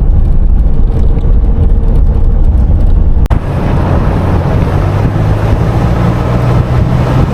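Car road and engine noise heard from inside a moving car climbing a winding road: a loud low rumble, with a brief drop about three seconds in, after which a steady engine hum comes through.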